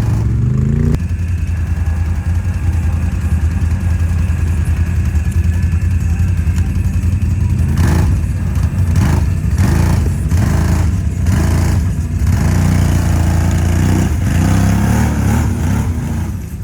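Can-Am Outlander ATV's V-twin engine running under load while riding, its revs rising and falling. A run of clattering knocks comes about halfway through.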